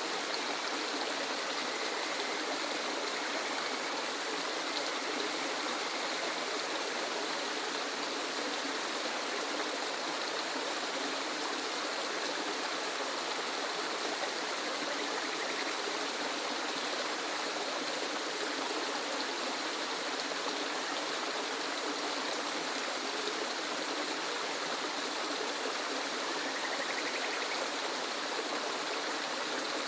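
Waterfall: a steady, unbroken rush of falling water with no pauses or changes.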